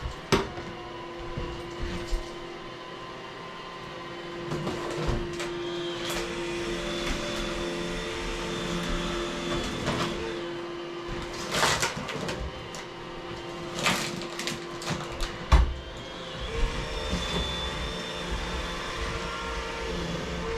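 Vacuum cleaner running with a steady motor hum on a kitchen floor, with several sharp knocks and bumps, the loudest a few seconds apart past the middle.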